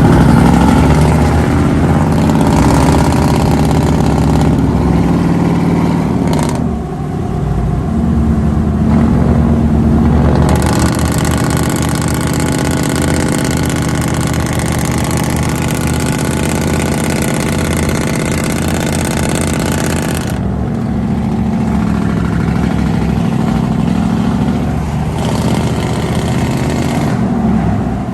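Loud truck engines with straight-pipe exhaust running and revving, changing abruptly several times from one truck to another.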